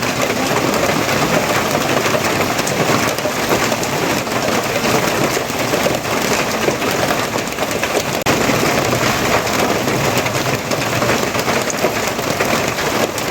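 Steady heavy rain falling on a surface, a dense, even patter.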